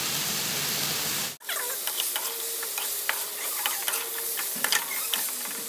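Onion and tomato masala sizzling in a kadai: a steady hiss at first, then, after about a second and a half, a perforated steel spatula stirring through it, with frequent clicks and scrapes against the pan.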